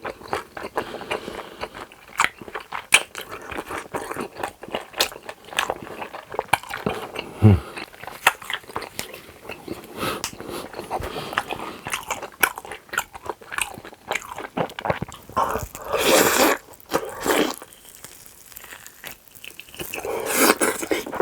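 Close-miked chewing and eating: wet mouth clicks and soft crunches in an irregular stream, with two louder, longer noisy stretches, one about two-thirds of the way in and one near the end.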